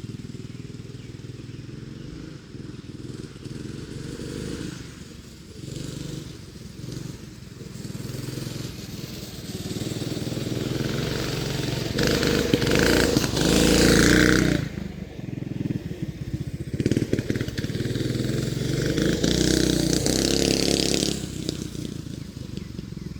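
Mini bike engine running as the bike is ridden. It revs up to full throttle about twelve seconds in, cuts off sharply, then revs hard again near the end.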